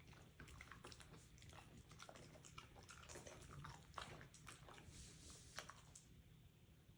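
Faint close-up sound of a dog chewing food, with many irregular small crunches and wet mouth clicks.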